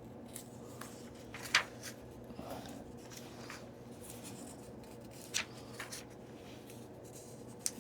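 Paper handling as pages of a book are turned: soft rustling with a few sharp crisp flicks of paper, the loudest about a second and a half in and another about five and a half seconds in.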